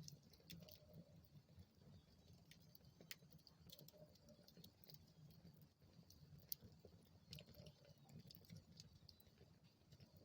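Faint crackling of a wood fire in a fireplace: irregular sharp snaps and pops over a low, steady rustle of the flames.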